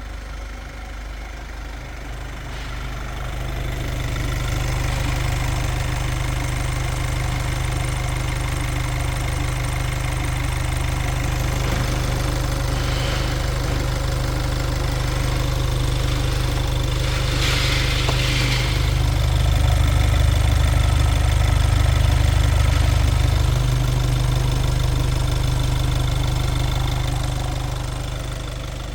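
LDV Deliver 9's 2.0-litre turbo-diesel engine running steadily at idle. It grows somewhat louder in the middle and eases off near the end.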